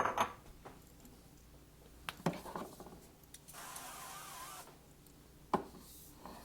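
Kitchen handling sounds while cooking: a few sharp clicks and knocks, and a hissing rush lasting about a second near the middle.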